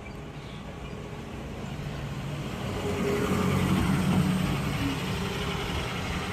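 A motor vehicle passing by, its noise building to a peak about midway and then easing off.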